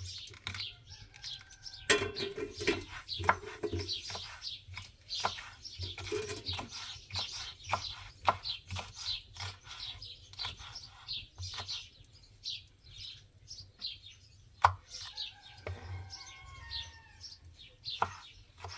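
Small birds chirping in quick, busy bursts, with a few sharp knocks among them, the loudest about three-quarters of the way through.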